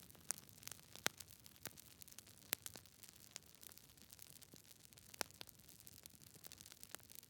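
Wood fire crackling: irregular small snaps and pops over a soft hiss, with a few sharper pops scattered through.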